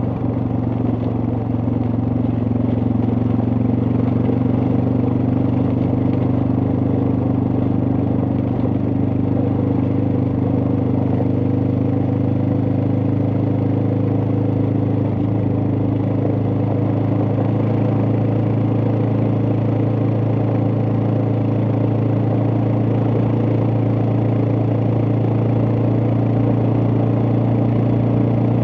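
Suzuki DR650's single-cylinder four-stroke engine running steadily at an even pitch.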